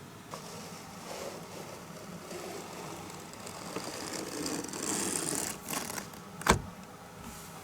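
Rustling and scraping of things being handled at close range, growing busier partway through, with a single sharp knock about six and a half seconds in.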